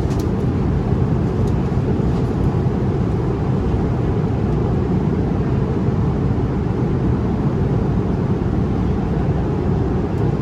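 Steady, even rumble of an Airbus A350-900 in flight, heard from inside the economy cabin: engine and airflow noise.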